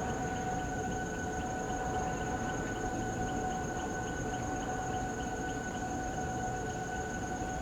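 Jet aircraft engines running steadily, a high whine of a few held tones over a low rumble, with a faint ticking repeating about two or three times a second above it.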